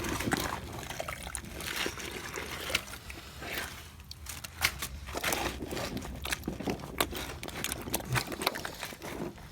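Gloved hand working in a blocked drain gully, splashing and dribbling dirty water while scooping out leaves and silt, with small wet clicks and rustles of debris.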